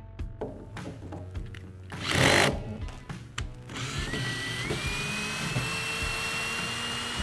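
Power screwdriver backing out screws: a short burst about two seconds in, then a longer run from about four seconds whose whine steps up in pitch and holds steady. Background music plays throughout.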